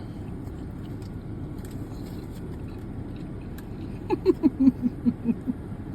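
Steady low rumble of traffic and the car's surroundings. About four seconds in comes a quick run of about nine short, loud pitched sounds, falling slightly in pitch.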